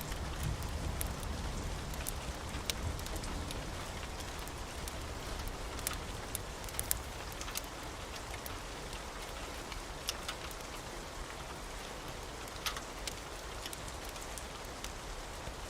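Steady rain falling, with scattered sharp ticks and pops through it. A low rumble dies away over the first few seconds.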